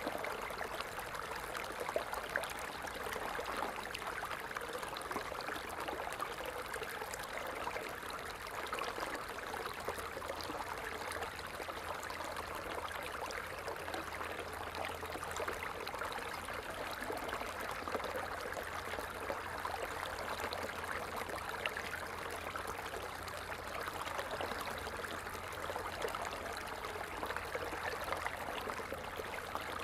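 Water falling and trickling in a steady, even splash, with fine crackle in the upper range.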